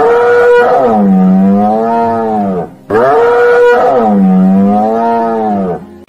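A long animal call, played twice the same way, about three seconds each: each one starts high, falls and holds low with a slight waver, then rises again just before it stops.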